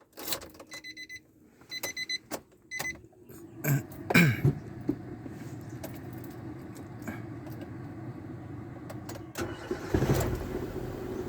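A Nissan Almera's key and ignition click, and its dashboard warning chime beeps in short repeated pulses. About four seconds in the engine cranks and starts, then settles into a steady idle.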